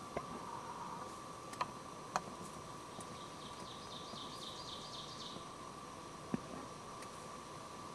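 Quiet woods with a steady hiss and a faint steady tone under it. A small songbird sings a run of about ten quick high notes in the middle, and a few sharp clicks or snaps sound near the start, twice around two seconds in, and once near the end.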